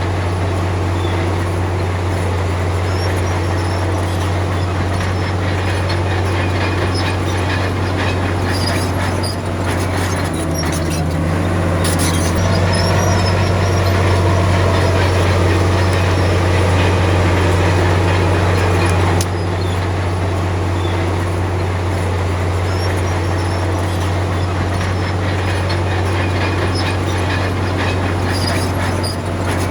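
Komatsu D53P bulldozer's diesel engine running steadily under load, a low drone with scattered clanks and rattles. The engine note shifts about a third of the way in and eases off about two-thirds in.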